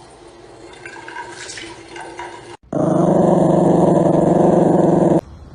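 A dog growling: one long, loud, steady growl lasting about two and a half seconds, starting suddenly about halfway through after quieter mixed sounds.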